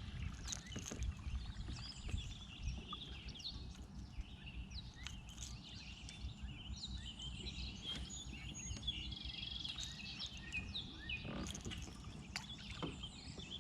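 Birds chirping and singing in many short, quick notes, over a steady low rumble and a few scattered clicks.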